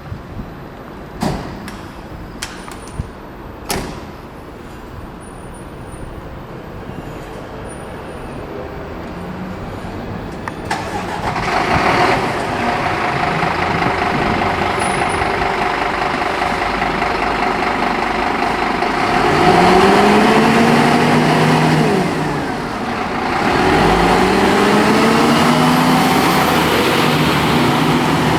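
Scania fire engine turning out. A few sharp knocks come first, then its diesel engine runs and grows louder. In the last third a siren wails in rising and falling sweeps over the engine.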